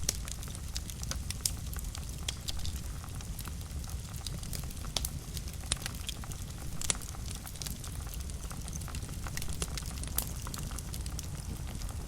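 Fire burning in a fireplace, crackling with frequent small irregular pops over a steady low rumble of the flames; one sharper pop about seven seconds in.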